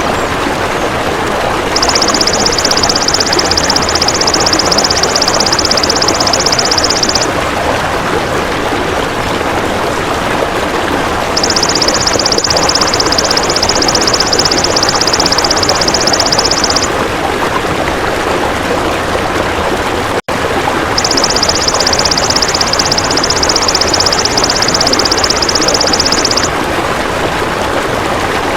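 A golden grasshopper (belalang emas) trilling: a high, fast, evenly pulsed buzz, three times for about five seconds each, with pauses between. Under it runs a steady rushing noise like running water, broken by a brief dropout about two-thirds of the way in.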